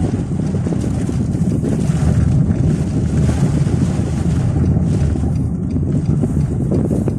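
Strong sandstorm wind blowing across the microphone: loud, steady wind noise, heaviest low down.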